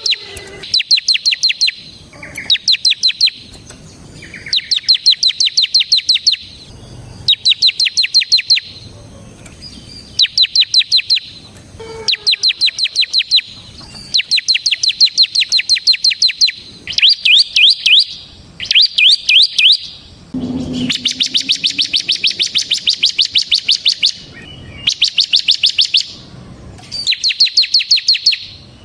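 Bar-winged prinia (ciblek) singing its rapid 'ngebren' song. High notes are repeated very fast in trill-like bursts of one to two seconds each, one burst after another with only short pauses between them.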